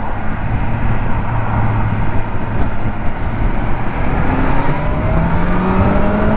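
Motorcycle engine running with a steady rush of wind noise, then rising in pitch in the last couple of seconds as the bike accelerates.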